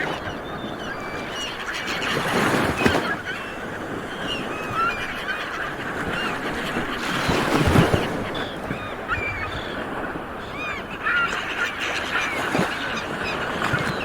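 A flock of seabirds calling, many short squawks and chirps overlapping, over a steady rushing noise that swells loudly twice, about two and about eight seconds in.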